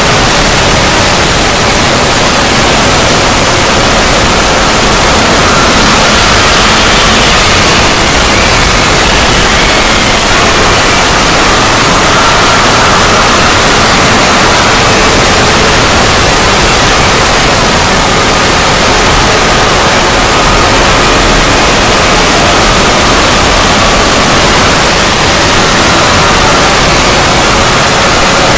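Loud, steady static-like noise drone from an edited logo sound effect, filling the whole range evenly, with faint wavering tones sliding through the middle.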